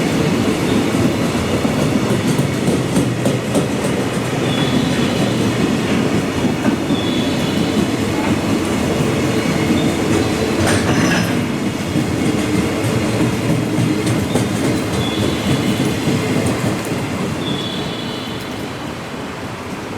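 Electric commuter train running through a station: wheels clattering rhythmically over rail joints under a heavy running rumble, with short high squeals from the wheels now and then. The sound swells briefly about halfway through and then fades over the last few seconds as the train draws away.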